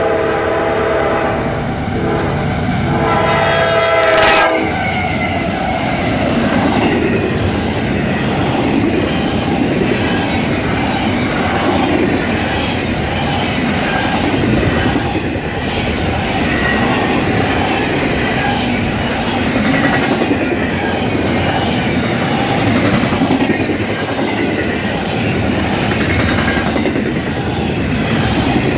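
CSX double-stack intermodal freight train: the locomotive's air horn sounds a chord for about four seconds and cuts off, then the train rolls by close with a steady rumble of wheels on rail and regular clickety-clack over the rail joints.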